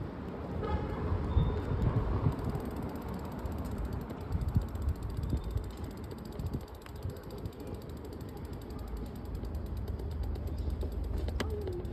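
Bicycle rolling along, its freewheel hub ticking rapidly as it coasts from about two seconds in, over a low rumble of road and wind.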